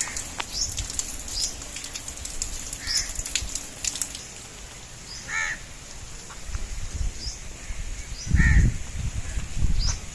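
Crows cawing a few times, the calls a couple of seconds apart. A low rumble comes about eight and a half seconds in.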